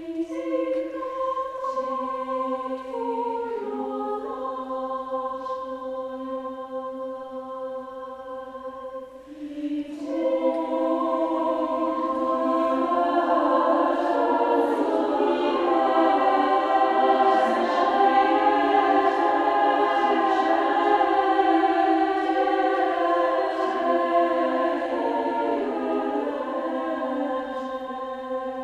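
Women's choir singing held chords with the voices split into several parts, with nothing below the range of women's voices. It is thinner and quieter at first, then, after a brief dip, becomes fuller and louder about ten seconds in.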